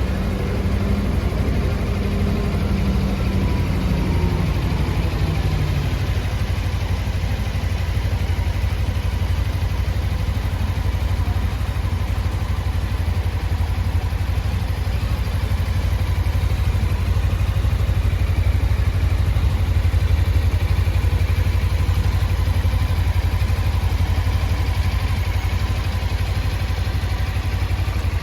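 Suzuki V-Strom 250's parallel-twin engine idling steadily.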